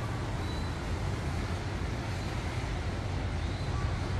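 Steady rushing noise of wind and rain on a city, with a low rumble from wind on the microphone. A few faint short chirps sound over it, about half a second in and near the end.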